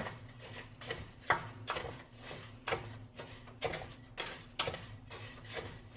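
A spoon knocking and scraping against the pot in short clicks about twice a second, stirring rice as it fries in oil.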